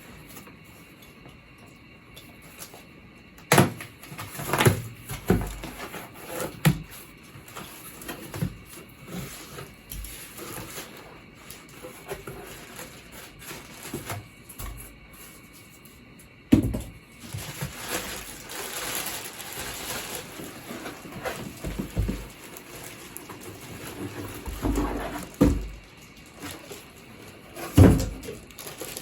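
Cardboard packaging being handled and opened by hand: scattered knocks and thumps of boxes and flaps, the loudest a little after three seconds in, at about the middle and near the end. A stretch of rustling runs for a few seconds just past the middle.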